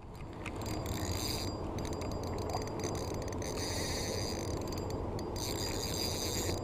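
Spinning reel on a noodle rod clicking and buzzing in uneven stretches while a hooked carp is played, the drag and reel working under load from the fish.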